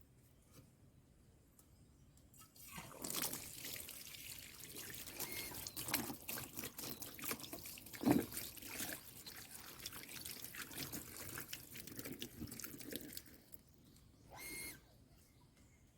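Water pouring and splashing for about ten seconds, from the rinsing of a water-tank filter, with one short splash near the end.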